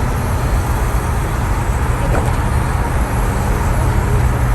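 A car engine running steadily with road noise: a low, even drone that holds the same pitch throughout.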